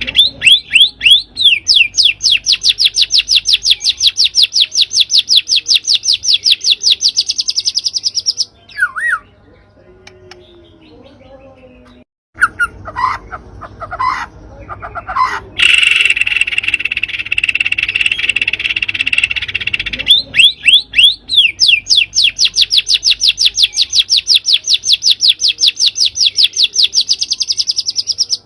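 Songbird lure recording: a bird gives long, loud trains of fast repeated sharp notes, about eight a second and several seconds each, with scattered single calls and a stretch of hissing buzz between the two trains.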